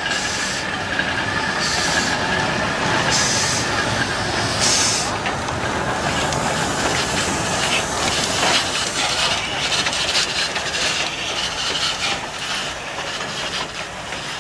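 Ol12-7 steam tank locomotive working slowly with its train. Steam exhaust blasts come about every one and a half seconds in the first five seconds, followed by the clanking and clattering of wheels and coaches moving over the rails.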